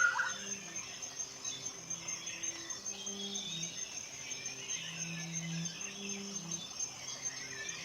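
Forest ambience: a steady, high-pitched insect trill with birds chirping now and then.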